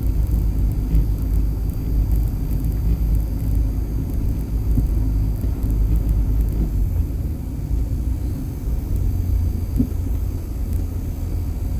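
Steady low rumble of a car driving over a rough, potholed road, heard from inside the cabin, with a few light knocks.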